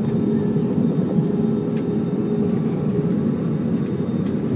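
Steady low rumble of an airliner's cabin noise, engines and air system running, with a faint steady hum over it.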